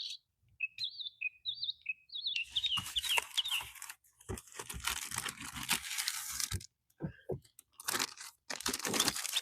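A few bird chirps, then bursts of crinkling and tearing as the packaging of a new replacement armrest is ripped open.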